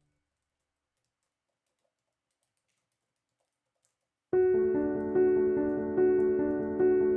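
Silence for about four seconds, then background piano music starts abruptly: a slow, repeating pattern of struck notes, each fading before the next.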